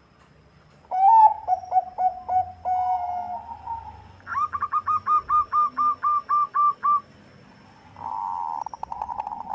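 Zebra dove (Bangkok perkutut) cooing. A few clipped notes run into a held coo, then comes a quick, even series of about a dozen higher staccato coos. Near the end there is a buzzy, rolling trill.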